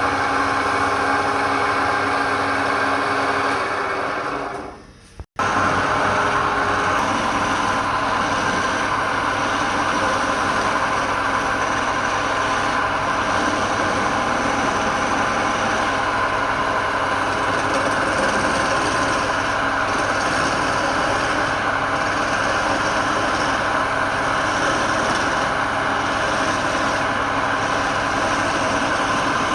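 Wood lathe running with a steady mechanical hum. About five seconds in it fades away and cuts back in abruptly.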